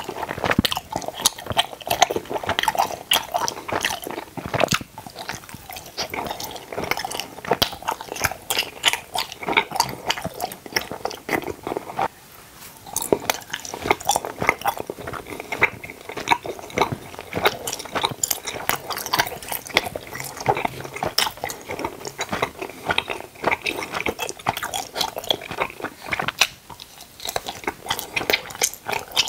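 Close-miked chewing of tooth-shaped gummy candies: a dense, continuous run of small clicks and smacks from the mouth as the pieces are bitten and chewed.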